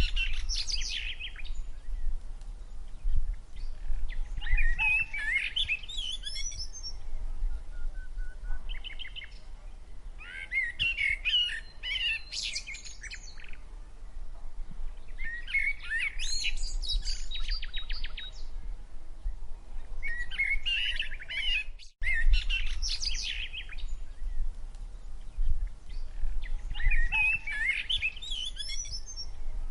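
Songbirds singing: short, busy song phrases repeating every few seconds over a steady low rumble. The sound drops out for an instant about 22 seconds in, like an edit.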